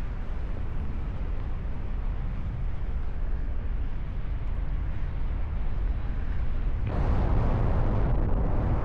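Wind rushing over the microphone of a paraglider pilot in flight: a steady low rumble that gets louder and harsher in a gust about seven seconds in.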